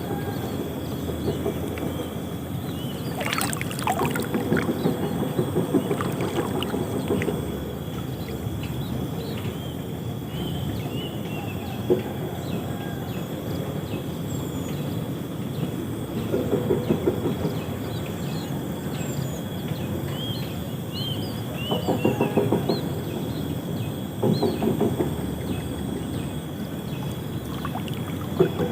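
Water sloshing and splashing in bursts around someone wading in shallow water, with one sharp click about twelve seconds in.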